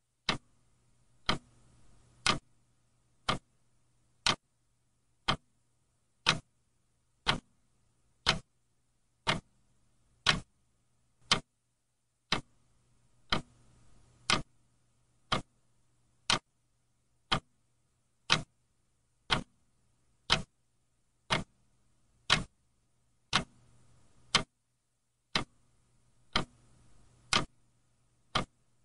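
Clock ticking steadily, one sharp tick about every second, with a faint low hum underneath at times.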